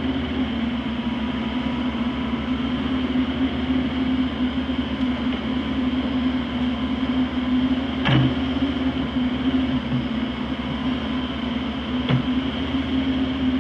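Heavy machinery engine running steadily, with two sharp knocks, one past halfway and one near the end.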